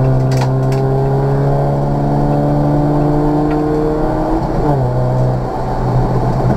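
Opel Corsa C GSI's 1.8-litre Z18XE four-cylinder engine, heard from inside the cabin, pulls hard under full throttle, its note rising steadily with the revs. About four and a half seconds in it breaks off for an upshift and carries on at lower revs.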